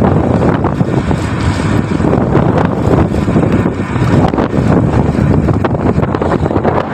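Strong wind buffeting the microphone on a ship's deck: a loud, uneven rush of noise that swells and dips.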